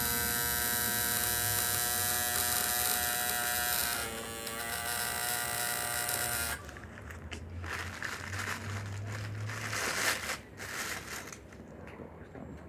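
Electric tattoo machine buzzing steadily with a slight drop in pitch about four seconds in, then cutting off about six and a half seconds in. Irregular rustling and crinkling noises follow.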